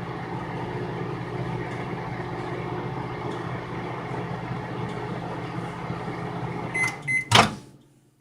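Microwave oven running with a steady hum while it softens a stick of butter. Near the end come two short beeps and a loud clunk, and the hum stops.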